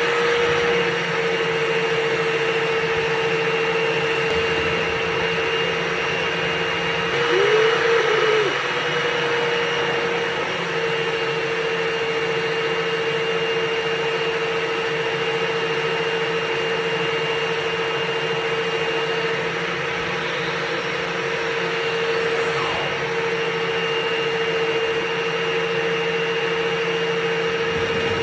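Dryer vent cleaning equipment running steadily in the duct: a constant motor whine over airy noise, with a brief surge and wobble in pitch about eight seconds in.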